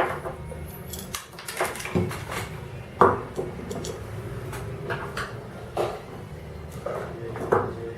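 Metal waveguide parts and small screws clinking and knocking as they are handled and fitted together by hand, a string of separate sharp knocks with the loudest about three seconds in.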